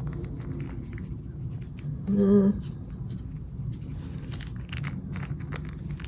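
A person gives one short hummed "mm" about two seconds in, amid faint clicks from small parts being handled, over a steady low background hum.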